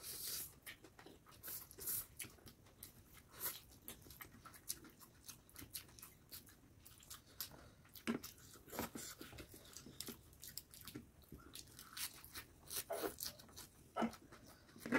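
Close-miked eating sounds: chewing and biting on forkfuls of chowmein noodles and chicken lollipop, heard as many short, irregular wet clicks and smacks.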